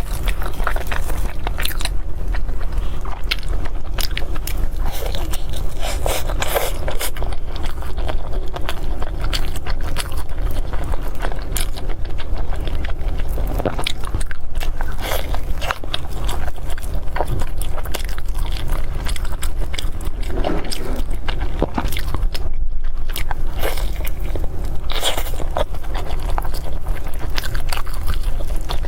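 Close-miked eating sounds: irregular biting, chewing and wet smacking of glutinous rice and meat, with a few crunches, over a steady low hum.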